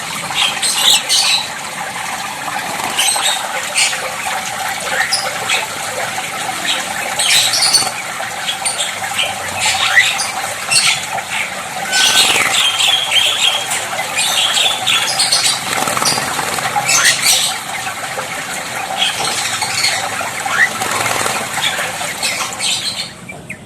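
A starling bathing: harsh squawks and chirps in quick, irregular bursts, mixed with splashing and wing flutters in the water.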